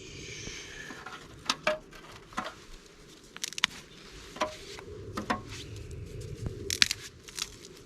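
Scattered light clicks, knocks and clinks from hands handling a metal barbecue grill and fire-making gear, opening with a brief squeak that slides down in pitch.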